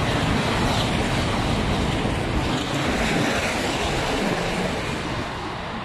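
Eurostar high-speed train passing at speed: a loud, steady rush of wheel and air noise that eases slightly near the end.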